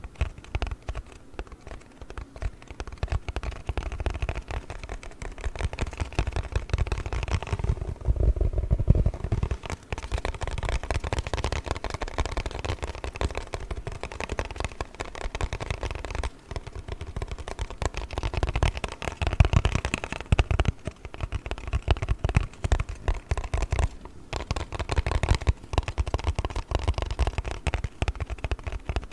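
Rapid tapping and handling of a cardboard box: dense crackly clicks over dull thuds, with the thuds heaviest about eight seconds in and again around twenty seconds.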